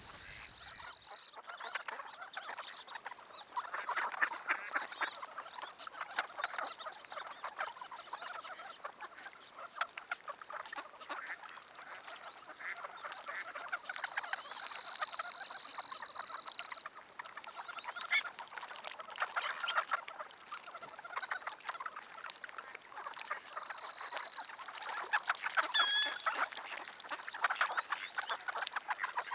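A large flock of ducks calling on flooded water: dense, overlapping quacks and chatter from many birds at once. A steady high-pitched tone sounds briefly a few times, and a single whistled call rises near the end.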